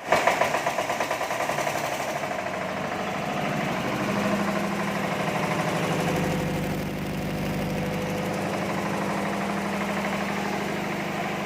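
Engine of a mechanical tower hoist running steadily with a rapid, even pulse of about seven beats a second, a little louder in the first two seconds.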